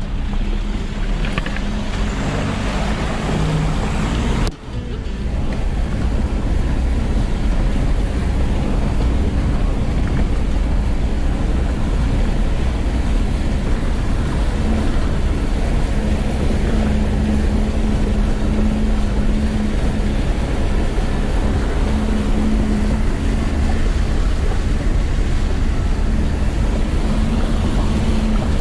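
Land Rover Defender 90 engine running steadily as it drives slowly through a shallow, rocky river crossing. The sound dips and breaks off briefly about four and a half seconds in.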